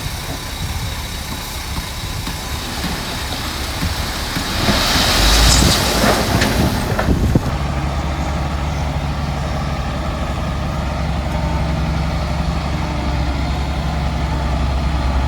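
Heavy diesel construction machinery running steadily, with a strong hiss lasting about three seconds around the middle. After that, a steady low engine hum carries on.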